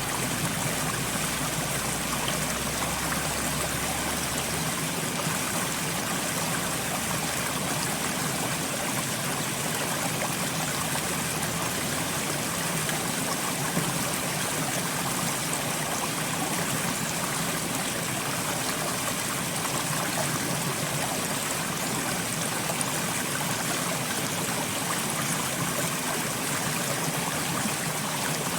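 Steady soft rain: a continuous, even hiss of falling water.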